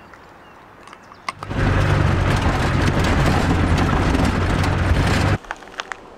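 Land Rover Defender 300Tdi turbodiesel running under way, heard from inside the cab as a steady low engine drone with road noise. It begins suddenly about a second and a half in and stops suddenly after about four seconds.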